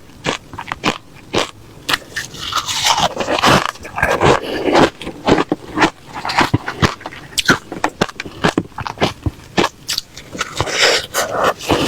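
Refrozen crushed ice being bitten and chewed close to the microphone: a run of sharp crunches, with denser crunching about three seconds in and again near the end.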